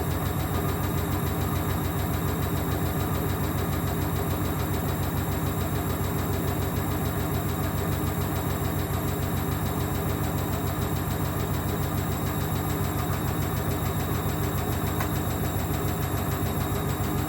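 Ocean 900 washing machine from 1994 spinning steadily with an unevenly balanced load: a continuous motor and drum hum with a fast even pulse.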